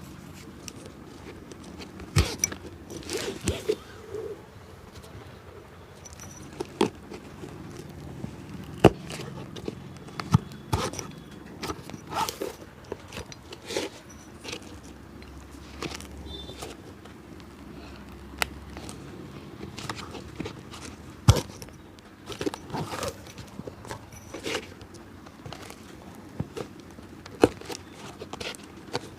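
A cobbler's hand work on a shoe: irregular taps, clicks and scratchy scraping of tools against the shoe, with a few sharper knocks standing out.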